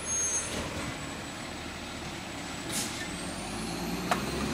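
Garbage truck engine running steadily, with a short hiss of air about three seconds in and a sharp click near the end.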